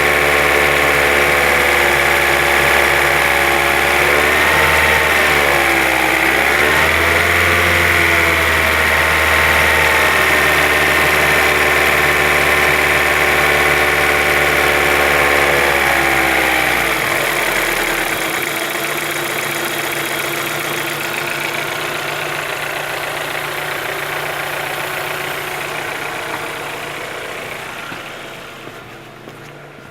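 Car engine running with a steady tone, its pitch dipping and coming back up a couple of times in the first half. About two-thirds of the way through the engine note drops away, leaving a fainter hum that fades out near the end.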